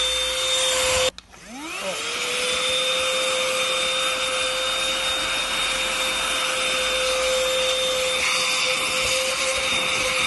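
Portable handheld vacuum cleaner's small electric motor running with a steady whine and a rush of air. It stops abruptly about a second in, then starts again, its whine rising to full speed within about a second, and runs steadily after that.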